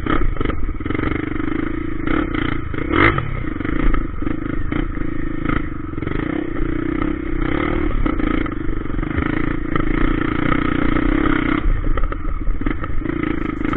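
Trail motorcycle engine running at a steady throttle while riding over a dirt trail, dipping briefly now and then, with scattered knocks and rattles from the rough ground.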